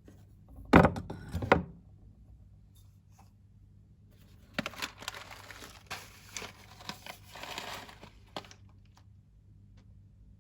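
Two loud knocks about a second in, then several seconds of crinkling and rustling, like packaging or paper being handled.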